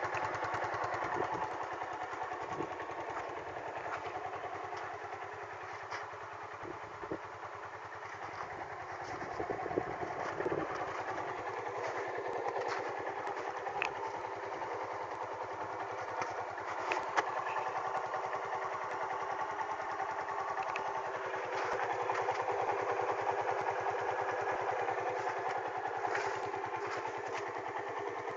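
Jialing 175 motorcycle engine running steadily, its speed and loudness rising a little a couple of times.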